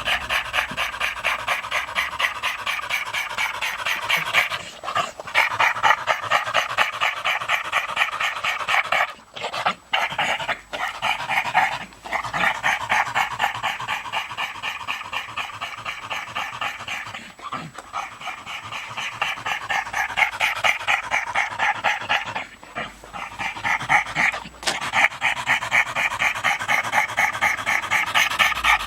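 A dog panting hard and fast with a wheezy rasp on its breaths, winded after a walk. The panting pauses briefly a few times.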